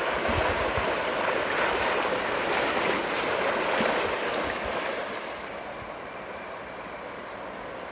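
River water rushing steadily over rapids, growing quieter and duller about five seconds in.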